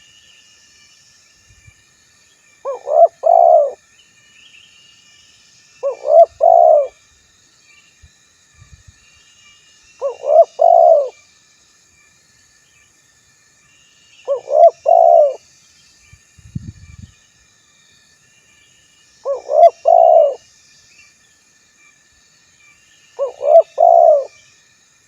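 Male spotted dove (tekukur) cooing its short two- to three-note call, repeated six times about every four seconds: the territorial call used as a lure to make other doves answer.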